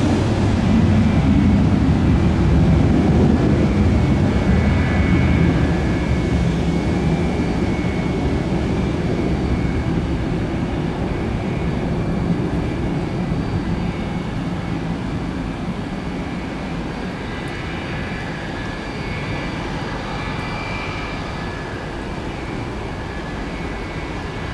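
Jet airliner's engines heard from the ground: a loud low rumble with a steady high whine over it, loudest for the first few seconds and then slowly fading away.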